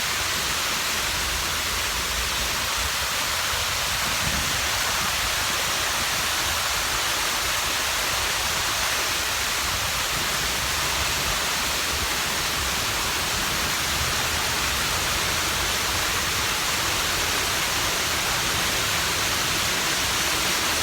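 A memorial fountain waterfall running, its water falling in a steady, even rush that does not change.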